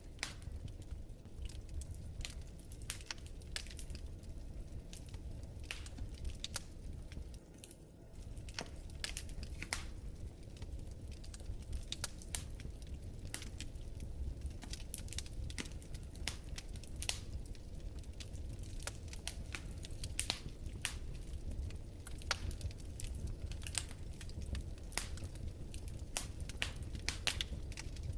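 Wood fire crackling in a fireplace: frequent sharp, irregular pops and snaps over a low steady rumble.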